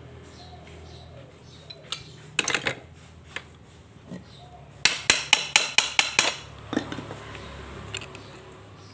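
Sharp knocks and taps, hard object on hard object: a short cluster about two and a half seconds in, then a quick run of about eight strikes near the middle, over a faint low steady hum.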